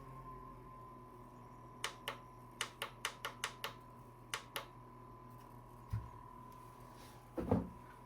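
Small portable fan's motor running with a steady hum, with a quick run of about ten sharp clicks a couple of seconds in, then a dull thump and a louder knock near the end.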